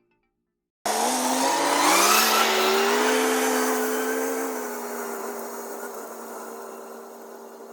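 An engine starts abruptly, its pitch rising over a second or so before settling to a steady run that slowly fades.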